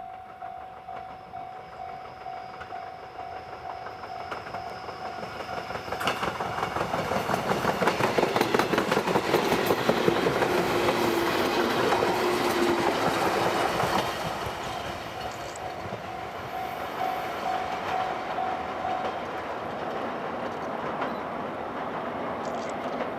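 Chichibu Railway 1000 series electric train, a former JNR 101 series, passing. The sound builds over several seconds, then the wheels clatter rhythmically over the rail joints, loudest in the middle, before it falls back to a steadier running noise as the train moves on.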